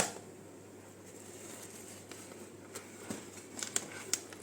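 A single sharp click as the microwave oven door latch is opened, followed a few seconds later by a handful of faint crackles from the paper popcorn bag.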